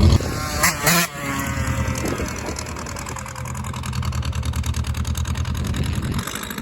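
Vehicle engine running steadily at low revs, with two sharp knocks about a second in; the engine sound drops away near the end.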